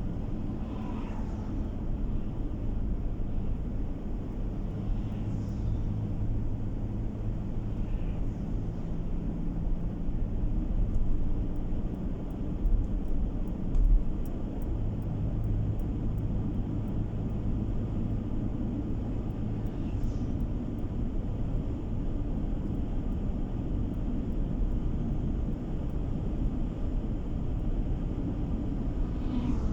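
Steady low road and engine noise of a car driving, heard from inside the cabin, with a few louder low bumps a little before the middle.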